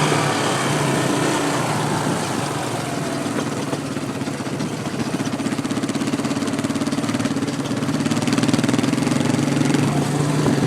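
ATV engine running steadily at a low, even pitch.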